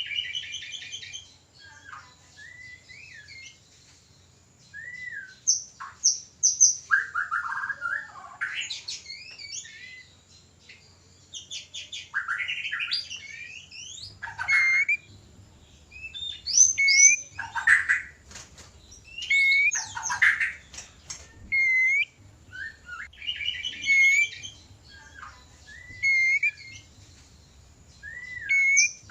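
White-rumped shamas (murai batu) giving breeding-season courtship song and calls: short varied phrases of clear whistles, rapid chattering trills and harsh notes, broken by brief pauses.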